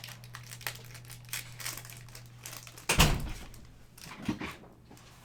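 Crinkling and rustling of a foil trading-card pack and cards being handled, with a single thump about three seconds in and a low electrical hum underneath.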